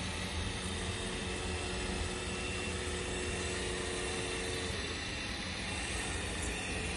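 Steady whine of a 1/14 scale hydraulic RC tractor's small electric motors and hydraulic pump running. One of its tones drops out about two-thirds of the way through.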